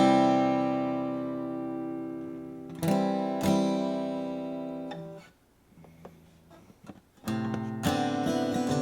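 1947 Martin D-18 mahogany dreadnought acoustic guitar: a strummed chord left ringing and slowly fading, then two more strums about three seconds in that ring out in turn. After a pause of about two seconds, strumming starts again near the end.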